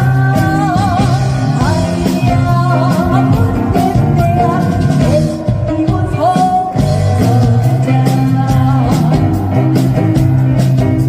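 Fusion gugak band playing live: a singer's voice with wavering, ornamented pitch over bass and a steady drum beat.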